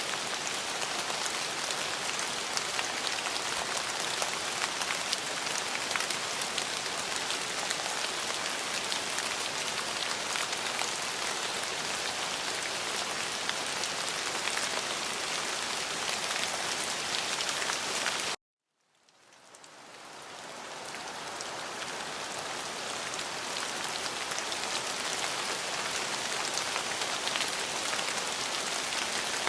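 Steady rain falling on a surface, a dense even patter with fine scattered drop ticks. About two-thirds of the way through, it cuts out abruptly to silence, then fades back in over a couple of seconds.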